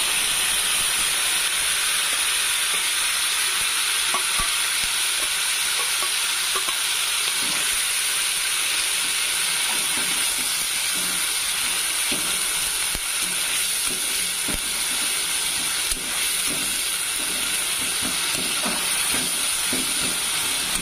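Wet onion paste sizzling steadily in hot oil in a metal kadai, just added to a cumin and dried-chilli tempering. A metal spatula stirs and scrapes through it with occasional light ticks.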